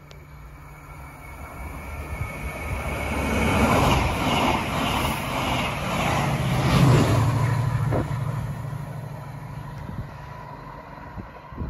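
TransPennine Express passenger train running through the station without stopping. It grows louder as it approaches, is loudest for a few seconds while passing alongside, then fades as it draws away, with a steady low hum under the rush of wheels on rail.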